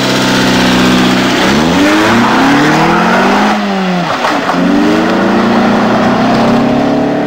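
Honda CRX 1.6 16v's four-cylinder engine, holding steady revs, then revving up and down: it rises about a second and a half in, drops sharply around the middle, and climbs again toward the end.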